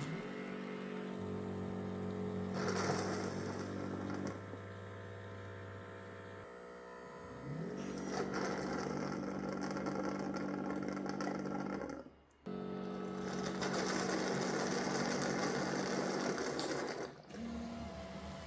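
Mova Z60 Ultra base station washing its mop roller: motor and pump hum with a steady pitched whir, stopping and restarting in stages, with a brief cut-out around twelve seconds in.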